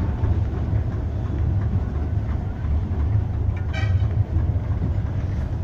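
A tram running, heard from on board: a steady low rumble of wheels on rails, with a brief high tone a little under four seconds in.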